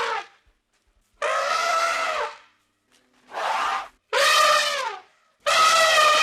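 An animal calling over and over: about four loud, pitched calls of roughly a second each with short gaps, each dipping a little in pitch at its end.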